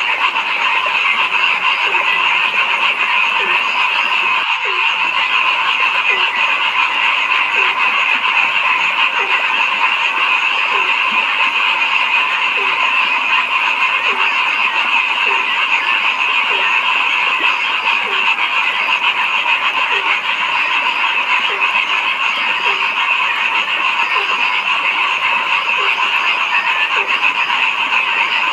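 A dense chorus of frogs calling steadily, a mass of overlapping trills. Through it one lower-pitched frog repeats a short, falling croak about once a second.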